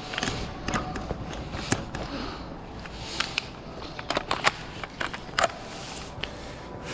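Scattered sharp cracks and clicks of an indoor airsoft game, with a quick run of them about four seconds in and a single loud crack a second later.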